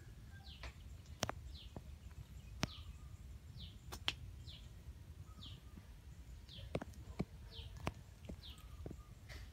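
A bird repeating a short, high, falling chirp over and over, more than once a second. Several sharp clicks stand out louder than the chirps, over a low rumble.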